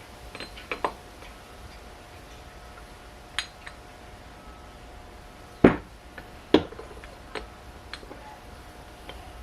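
Scattered metal clinks and clanks of the parts and tools being handled while the front brake disc is turned over to be set up for knocking its bearings out. There are about six separate knocks, the loudest a sharp clank a little past halfway, followed closely by a second one.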